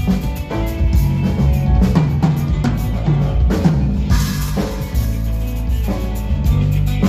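Live band playing at a soundcheck: a drum kit with bass drum and snare hits over sustained low bass notes, with a splash of high, noisy wash about four seconds in.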